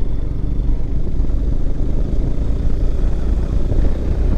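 Motorcycle running on the road: a steady low rumble with wind rush on the microphone.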